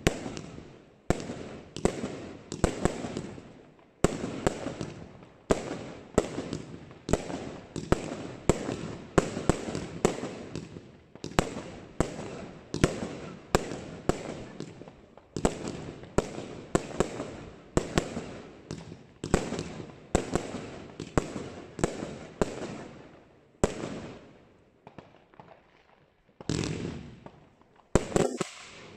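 Evolution Fireworks Acatenango firework cake firing, a steady run of sharp shots about one to two a second, each trailing off. The shots slacken and go quiet for a couple of seconds late on, then start again.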